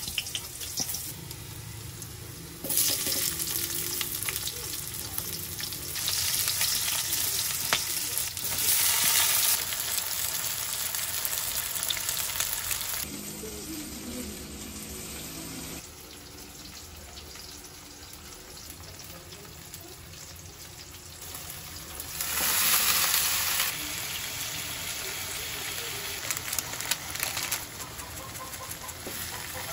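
Garlic and then shrimp sizzling in hot oil in a wok, with stirring. The sizzle swells loudly several times along the way.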